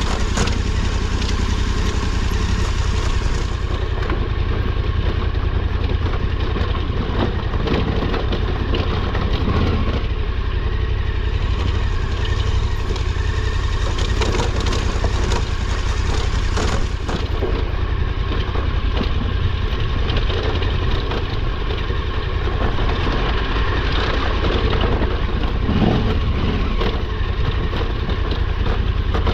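KTM 1290 Super Adventure R's V-twin engine running at low revs as the bike rolls down a steep rocky trail. The sound is steady, with many small knocks and crunches of the tyres over rocks and gravel.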